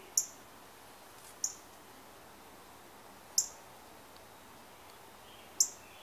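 A small bird giving short, sharp, high chip calls, four in all, spaced one to two seconds apart, over faint steady background noise.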